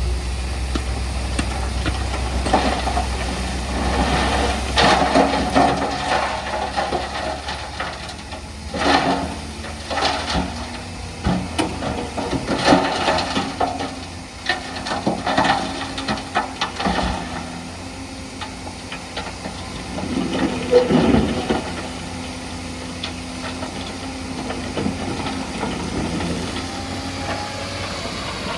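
Diesel engines of heavy earthmoving machinery, a bulldozer and dump trucks, running, with irregular rattling and clanking. A deep low rumble carries through the first ten seconds or so, then fades, leaving a steadier engine hum.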